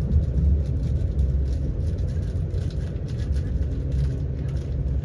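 Steady low rumble of an Avanti West Coast Class 390 Pendolino electric train running along the line, heard from inside the carriage, with faint irregular ticking over it.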